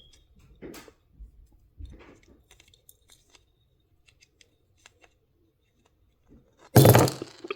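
Faint, scattered small clicks and taps of tiny miniature craft pieces being handled and fitted together, then a short loud rustle near the end.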